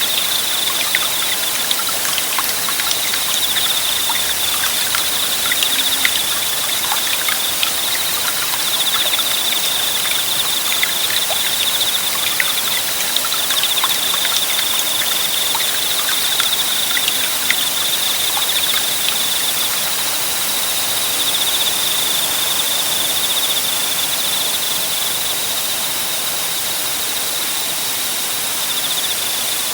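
Small forest stream babbling and trickling, with a single insect's steady high-pitched trill over it.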